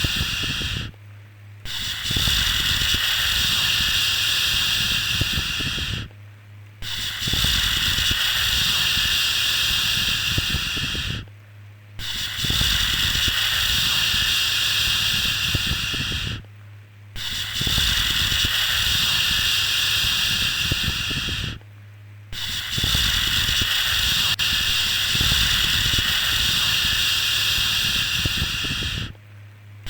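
A long, steady 'shhh' shushing sound, the hiss held for several seconds at a time and broken by a short pause about every five seconds: a soothing shush used to settle a baby to sleep.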